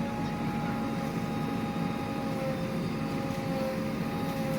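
Backhoe loader's diesel engine running steadily at raised revs with a steady whine over its low rumble.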